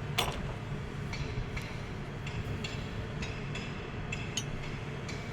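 Scattered light metallic clinks and taps of engine parts and tools being handled, over a steady low background hum.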